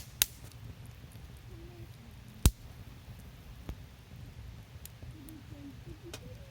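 Wood fire crackling, with scattered sharp pops, the loudest about two and a half seconds in, over a low steady rumble.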